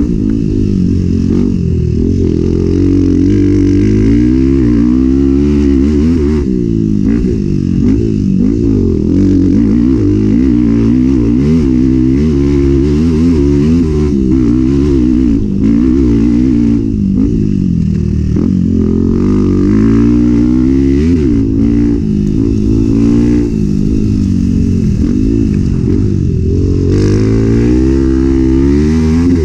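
Enduro motorcycle engine under hard riding, its pitch rising and falling over and over as the throttle is opened and closed.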